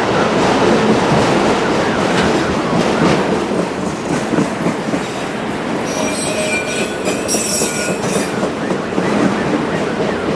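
Empty autorack freight cars rolling past, their wheels clacking. A high-pitched wheel squeal rises over the rolling noise from about six seconds in and stops about two seconds later.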